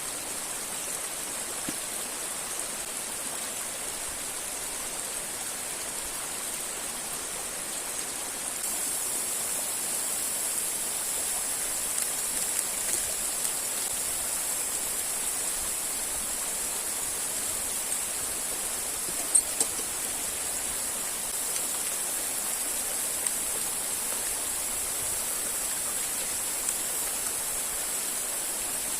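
River and waterfall water rushing steadily, getting a little louder about a third of the way in. A few small sharp clicks sound over it, the loudest a quick pair a little past the middle.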